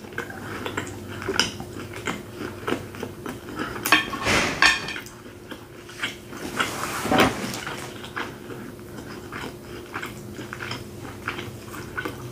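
A person chewing a mouthful of grilled steak: steady wet mouth clicks and smacks, with a couple of louder bursts about four and seven seconds in.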